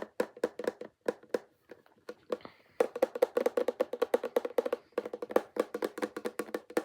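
Tapping on a Funko Pop vinyl figure, hollow-sounding knocks. Separate taps at first, then a quick run of rapid taps in the middle, then steady tapping again.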